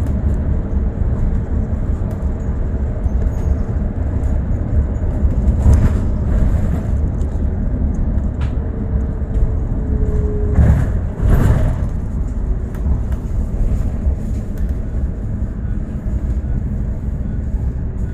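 Bus ride noise: a steady low engine and road rumble with a faint whine that comes and goes. There are two louder swells, about six and eleven seconds in.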